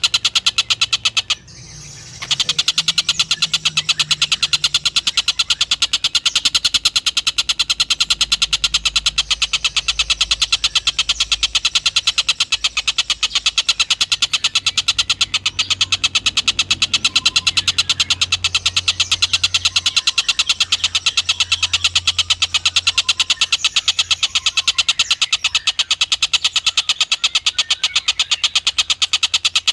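Tengkek buto kingfisher giving a fast, continuous pulsed call, high-pitched and rapidly repeated, with a brief break about a second and a half in.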